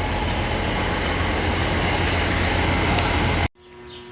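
Tractor and TMR mixer wagon running at a loud, steady level, a low engine hum under a broad rush of noise. It cuts off suddenly near the end, leaving a faint hum.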